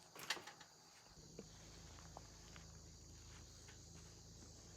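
Faint, steady high chirring of insects, with one sharp knock about a third of a second in and a few faint clicks afterwards, over a low hum that comes in after about a second.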